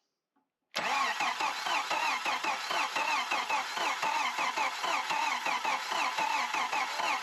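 A 1993 Jeep YJ engine being cranked over by its starter, turning over with an even, rhythmic pulse but not firing. It starts about three-quarters of a second in and runs on steadily. Checked during cranking, the ignition is giving no spark.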